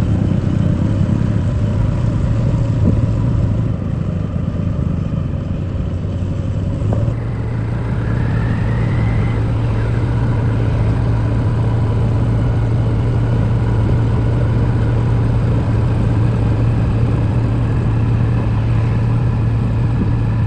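Diesel engine running steadily under load, with a strong low hum, and a brief rising whine about eight seconds in.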